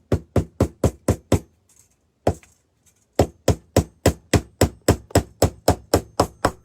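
A hammer tapping a nail through metal ribbon into a small wooden birdhouse roof: quick, sharp strikes about four a second, a short run, a pause with a single tap, then a longer run of about fifteen strikes.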